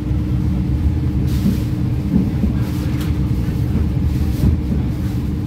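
Steady low rumble of a moving passenger train heard from inside the carriage, under a steady hum, with a single sharp click about three seconds in.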